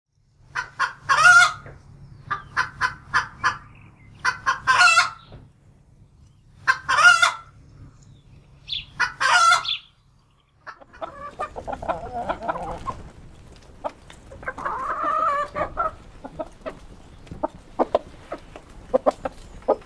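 Chickens clucking and cackling: four runs of short clucks, each ending in a longer, loud squawk. After a brief break near the middle, a busier stretch of clucking follows with one longer call.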